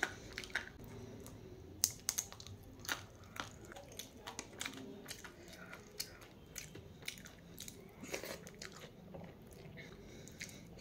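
A person chewing and biting crunchy food close to the microphone, with irregular sharp crunches coming several times a second in places.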